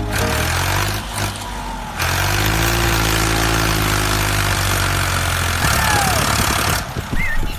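An engine running steadily under a hiss; both drop away near the end.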